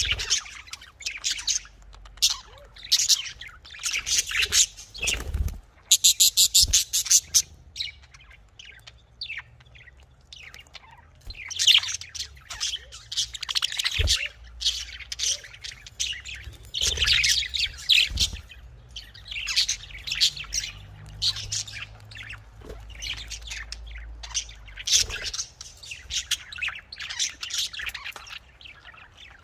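Budgerigars chirping and chattering nonstop, many short high calls overlapping, with a fast run of repeated notes about six seconds in.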